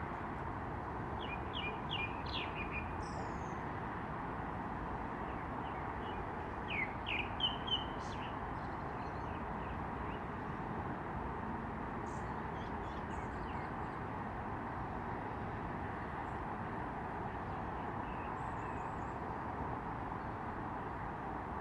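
Small birds chirping in short clusters of quick, high notes, loudest about seven seconds in, with a few fainter calls later. They sound over a steady background hiss.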